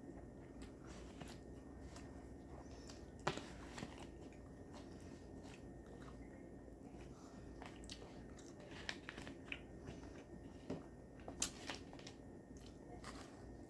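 Faint handling sounds of a chicken, bacon and ranch wrap being folded and rolled by hand: scattered soft crackles and clicks, the sharpest about three seconds in and a cluster around eleven seconds in, over a low steady hum.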